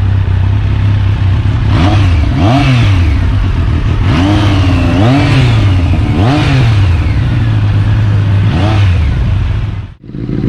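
Superbike engine running with a steady low note and about four throttle blips, each rising and falling in pitch. The sound drops out sharply just before the end.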